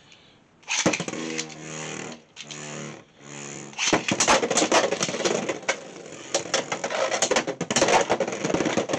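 Three short whirring pulls of a Beyblade X launcher, then, about four seconds in, the launch and two spinning Beyblade X tops clattering and clashing against each other and the stadium walls, with rapid sharp clicks and knocks.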